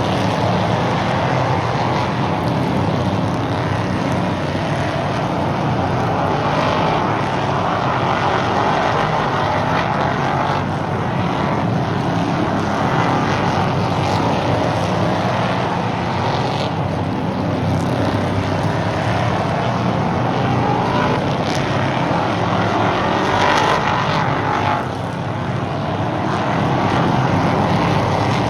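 Several stock race cars lapping a short oval track, engines rising and falling in pitch as they pass, with a brief dip in loudness near the end.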